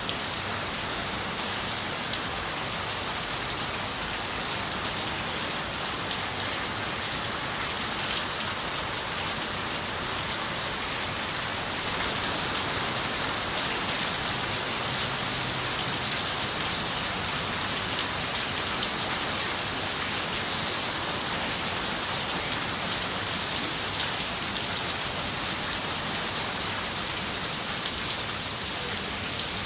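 Steady rain falling on a window, a dense even hiss with scattered drop ticks, a little heavier from about halfway through.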